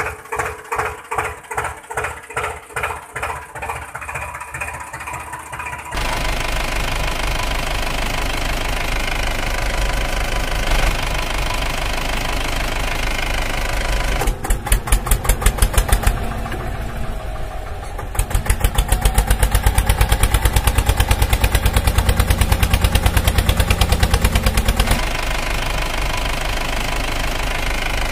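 Music with a steady beat for about six seconds, then a heavy diesel engine running: a steady low drone, with a fast even thudding in two stretches near the middle, the second lasting about seven seconds.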